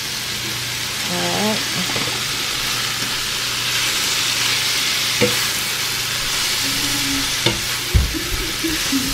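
Sliced bell peppers frying on onions in a hot flat pan: a steady sizzle that swells about a second in as the peppers hit the oil. A metal slotted spatula stirs them, clicking against the pan about halfway through and twice near the end.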